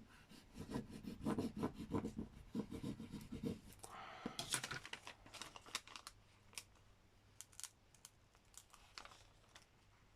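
Hands working craft materials on a table: rubbing and scratching on paper and plastic, then a brief crinkly rustle about four seconds in, followed by scattered light clicks and taps.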